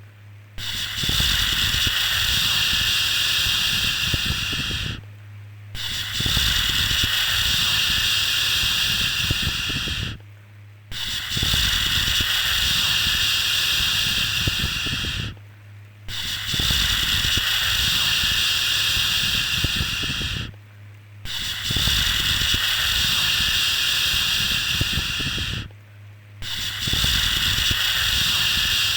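A looped 'shhh' shushing sound for soothing a baby: long hissing shushes of about four and a half seconds each, repeated every five seconds or so with short breaks between, over a steady low hum.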